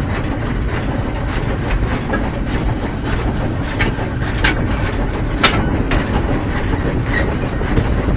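Heisler geared steam locomotive running, heard from its cab: a steady rumble with hiss, and a few sharp metallic clanks about four to five and a half seconds in.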